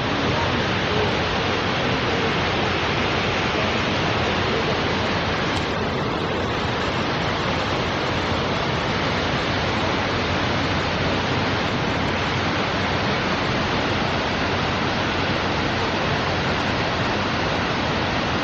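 Steady roar of a large waterfall, heard close up: falling water crashing onto rock.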